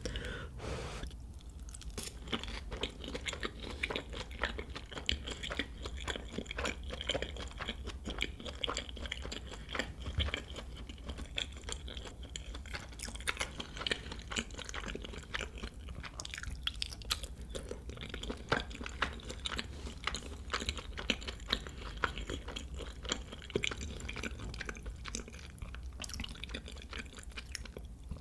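Close-miked chewing of tteokbokki, soft, chewy rice cakes in sauce, with many small mouth clicks spread evenly throughout.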